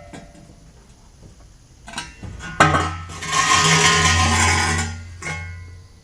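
Acoustic guitar music with plucked notes. A louder noisy stretch lasting about two seconds, with a steady low hum under it, begins about three seconds in.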